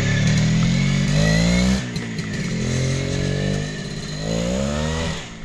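Motorcycle engine revving: the pitch climbs for about a second and a half, drops off, then climbs again and falls away near the end.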